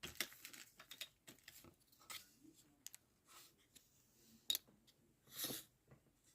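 Faint light clicks and scratchy rubs of small objects and tools being handled at a hobby workbench, quickest in the first two seconds, with a brief soft hiss about five and a half seconds in.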